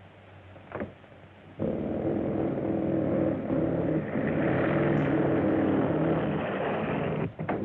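Train running fast on the track: a steady heavy rumble with a few held tones, starting suddenly about a second and a half in and cutting off abruptly near the end.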